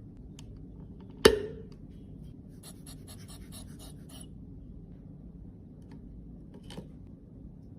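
Close-up handling sounds of cosmetic repair: one sharp hard tap, then a quick run of about eight short scraping strokes, and a lighter tap near the end, over a low steady background.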